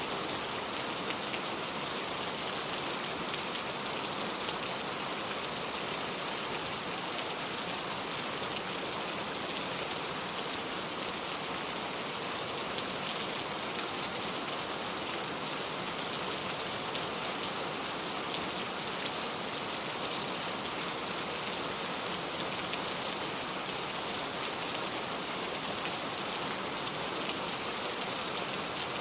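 Heavy rain pouring steadily, a dense even hiss with many individual drops ticking on surfaces.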